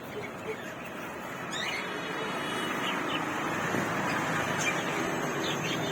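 Caged birds giving a few short, high chirps over a steady background noise.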